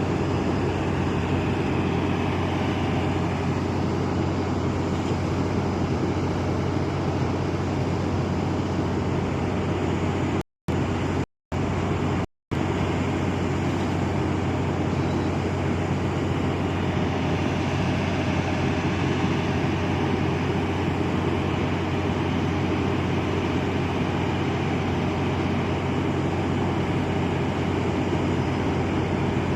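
Marine diesel engine of a ship or tugboat running steadily, a constant low drone. The sound drops out three times for an instant a little before the middle.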